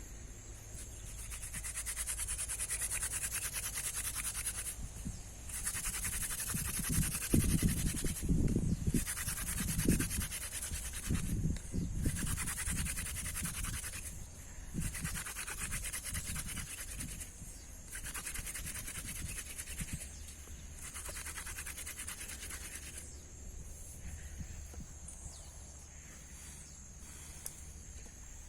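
Rhythmic back-and-forth scraping in strokes a second or two long with short pauses between, with a few heavier knocks in the middle.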